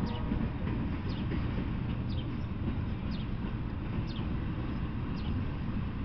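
Intermodal freight train rolling past: a steady rumble of its wheels on the rails. A short high whistle, falling in pitch, repeats about once a second over it, like a bird calling.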